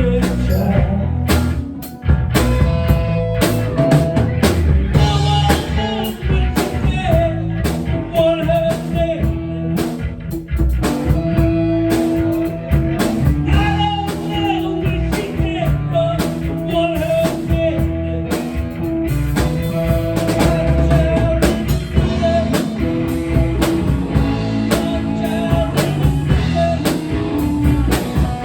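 Blues-rock band music with drum kit and guitar, played loud with a steady beat.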